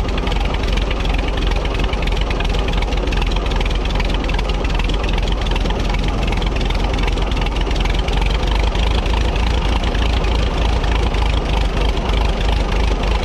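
A 1950–51 Minneapolis-Moline ZAU tractor's four-cylinder engine idles steadily with a fast, even beat. It is running cold and a little fussy, with the choke partly in.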